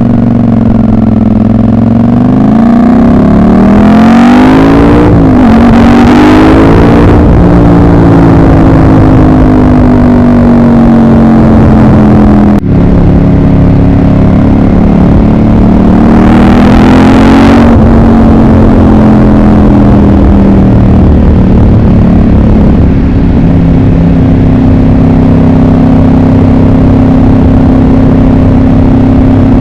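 Ducati 748's 748cc desmodromic L-twin engine running under way. The revs climb, drop at a gear change about five seconds in and climb again, then fall away slowly. After a brief break they rise once more around the middle and settle to a steady pitch for the last several seconds.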